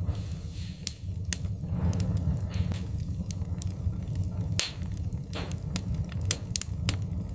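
Wood fire burning in a fireplace: irregular sharp crackles and pops over a steady low rumble of the flames, with a few soft hisses.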